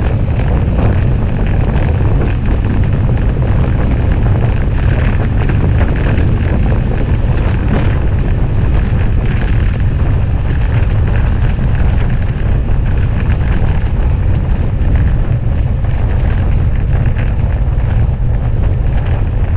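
Loud, steady wind rumble buffeting an action camera's microphone while cycling at speed.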